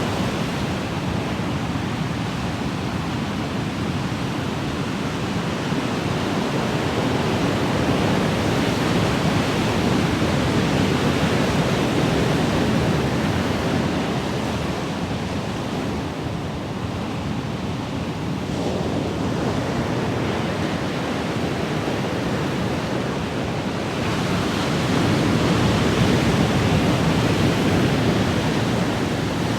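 Ocean waves washing in a steady, even roar of surf, swelling and easing slowly over several seconds.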